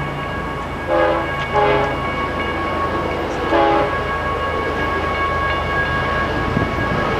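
A GE ES44DC diesel locomotive's air horn sounds three short blasts, about one, one and a half and three and a half seconds in, over the steady rumble of an approaching BNSF intermodal stack train.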